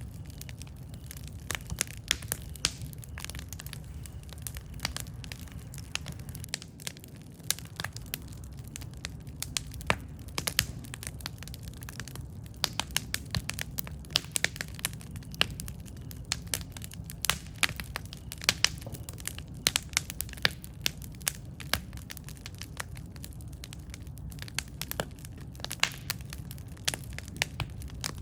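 Wood campfire burning, with constant crackling and frequent sharp pops over a low steady rumble of the flames.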